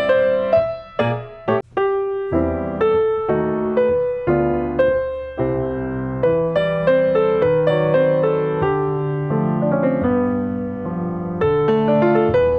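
Background piano music: a gentle melody of single notes struck at an even pace, briefly breaking off about a second and a half in.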